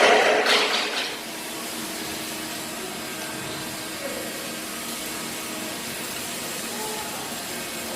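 Clatter of metal parts and tools being handled during engine assembly for about the first second, then a steady workshop hum with faint steady tones.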